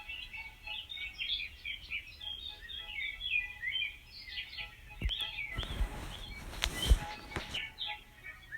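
Many small birds chirping busily, a quick run of high chirps throughout. About five seconds in, a burst of rustling noise with several sharp knocks partly covers them, loudest about two seconds later.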